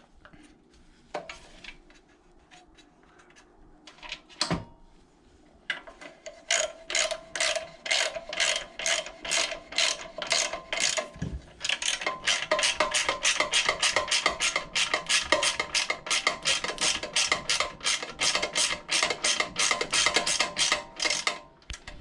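Hand ratchet wrench clicking in a long, even run of sharp clicks that starts about six seconds in, quickens about halfway through to around four clicks a second, and stops just before the end. A few separate knocks come before it.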